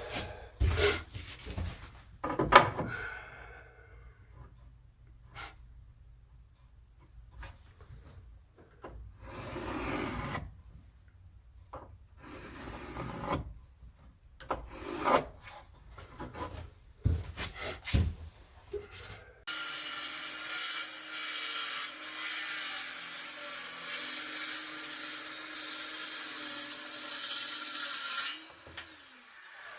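Knocks and clatter of wood and tools being handled, then a cordless circular saw running and cutting through a pine shelf for about nine seconds before its motor winds down with a falling pitch.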